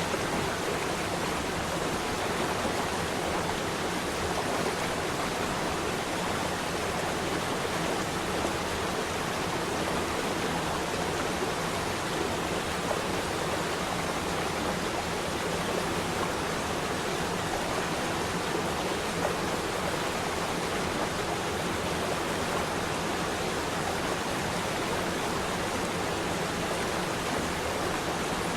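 Flowing water rushing steadily and evenly, with no change or break.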